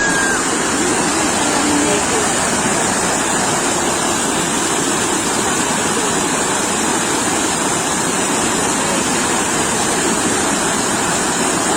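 Sea waves breaking on a beach: a loud, steady wash of surf.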